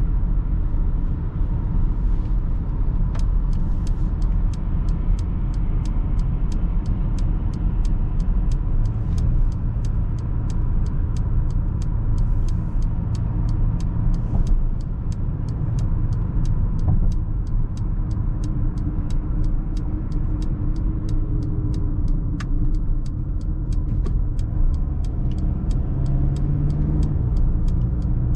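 Mercedes GLA 220d 4MATIC driving, a steady low rumble of its four-cylinder diesel engine and road noise. From about three seconds in, a regular ticking about twice a second runs over it.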